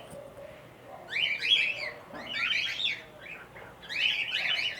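Small parrots in a cockatiel and African lovebird aviary chirping and chattering in three quick bunches of high-pitched calls.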